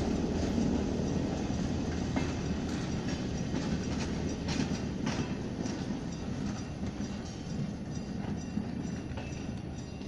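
Passenger train rolling away on the track: a steady low rumble with irregular sharp clicks of the wheels over rail joints, slowly fading.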